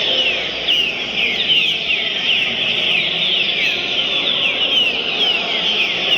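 Green-winged saltator (trinca-ferro) singing: a rapid, continuous run of clear whistled notes, each sliding downward in pitch, over a steady low background noise.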